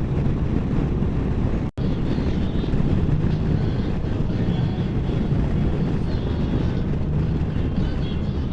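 Can-Am Spyder three-wheeled motorcycle running at steady road speed: a constant drone of engine and road noise, cut by a very brief total dropout just under two seconds in.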